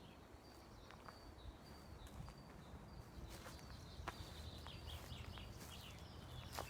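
Faint small birds chirping over and over in high, short notes, with a few soft clicks.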